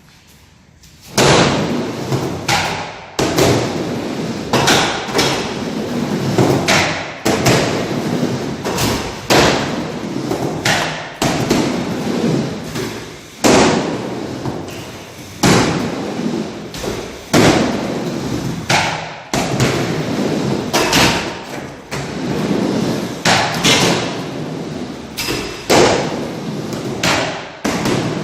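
A long series of loud thumps and knocks, one every second or two at uneven spacing, each dying away quickly.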